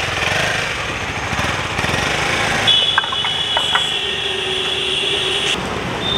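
KTM 250 Adventure's single-cylinder engine as the motorcycle pulls away and rides off. A steady high tone sounds for about three seconds in the middle.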